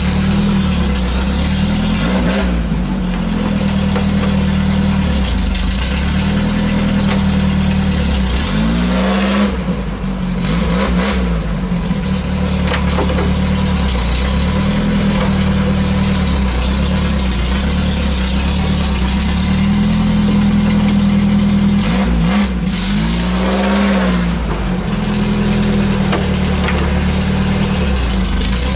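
Air-cooled VW Beetle flat-four engine running at idle, its speed briefly rising and falling three times, about two seconds in, around ten seconds in and again a little past twenty seconds in.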